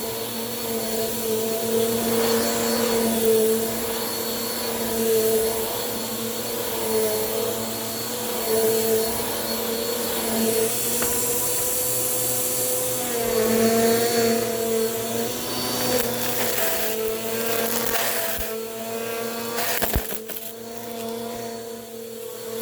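Bissell PowerForce Compact upright vacuum running steadily, its motor hum wavering slightly in pitch as it works. A few sharp clicks near the end.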